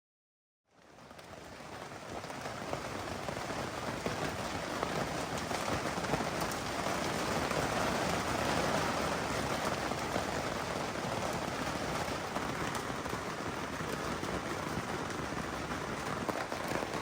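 Steady rain falling, fading in from silence over the first couple of seconds, with faint scattered drop ticks.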